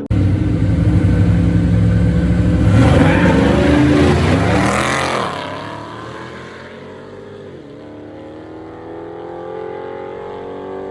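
Racing cars launching at full throttle and passing close by, their engine pitch bending down as they go past about five seconds in. They then accelerate away more quietly, the engine note climbing.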